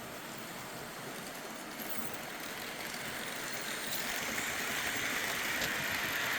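Märklin model train rolling along its track, a steady whirring rattle of wheels and motor that grows gradually louder as it nears.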